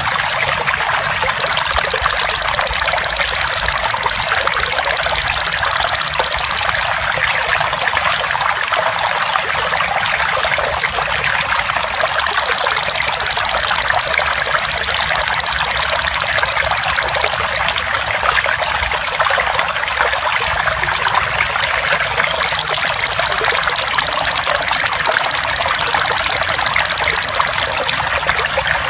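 Steady trickling water, with a belalang emas (golden grasshopper) calling three times in long, high, rapid buzzing trills of about five seconds each, separated by pauses of about five seconds.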